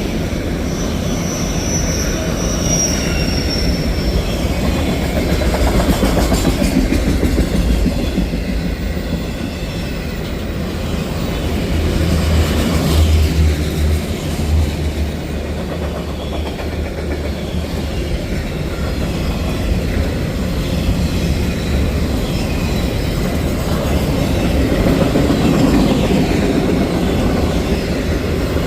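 Freight train cars rolling past with a steady rumble and clickety-clack of wheels over the rail joints. A brief high-pitched wheel squeal, falling slightly in pitch, sounds about two seconds in.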